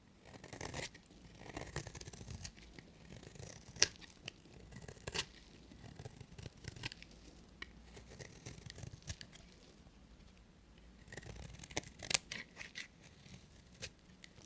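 A knife cutting through dry bar soap: crisp, irregular scraping and crackling strokes, with a few sharp snaps about four and five seconds in and again near twelve seconds.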